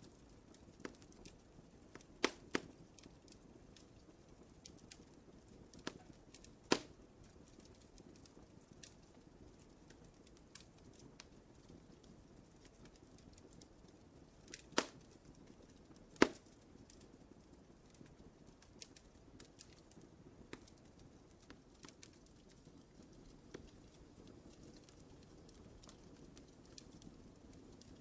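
Wood fire crackling in a fireplace: a low, steady hiss with scattered small crackles and a few sharp pops, the loudest two about a second and a half apart near the middle.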